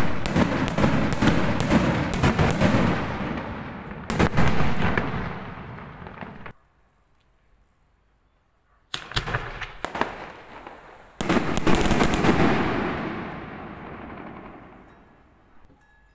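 Festival fireworks salute ('diana'): a rapid string of loud bangs, each followed by a long rolling echo. The sound cuts off abruptly about six and a half seconds in. More bangs start about nine seconds in, and a big burst about eleven seconds in fades slowly away.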